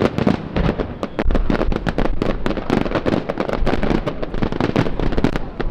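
Display fireworks going off in a rapid, dense volley: many sharp bangs and cracks a second, one after another, over a low rumbling boom.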